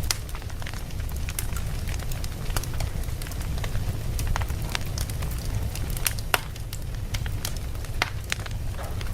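Wood fire burning in a fireplace: logs crackling with irregular sharp pops over a steady low rumble of the flames, one pop louder than the rest a little past the middle.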